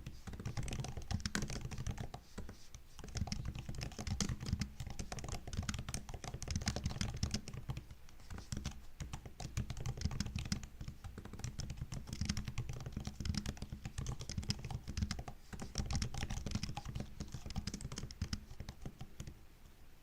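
Typing on a MacBook keyboard: a fast, continuous run of light key clicks and taps, with a couple of short pauses.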